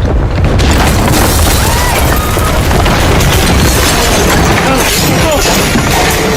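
Loud, continuous low rumbling and crashing of shaking, collapsing structures, with people's voices shouting over it.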